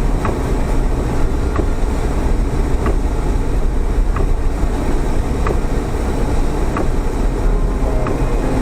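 Off-road vehicle driving through mud: a steady low rumble of engine and tyres, with light ticks every second or so.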